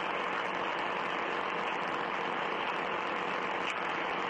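Steady, even hiss of static on the recording, with no speech.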